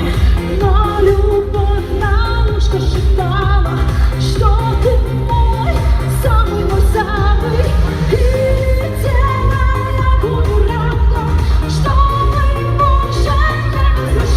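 Pop song performed live: a woman singing a melodic line over a backing track with a heavy, steady bass beat.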